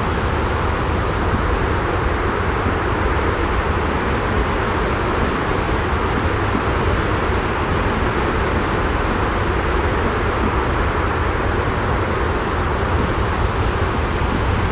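Steady, unbroken white noise: an even rushing sound with a low rumble underneath, unchanging throughout.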